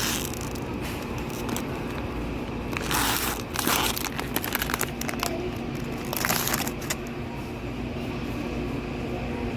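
Crinkling and rustling handling noises, in short bursts about three seconds in and again around six seconds, over a steady low background hum.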